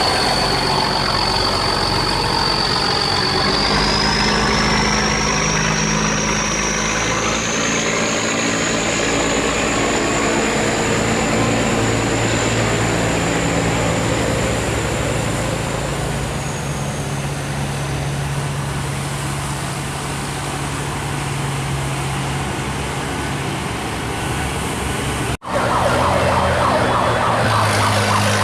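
Boat engines running, with a high whine that rises in pitch about four seconds in, holds, and drops back about seventeen seconds in. The sound cuts out for an instant near the end.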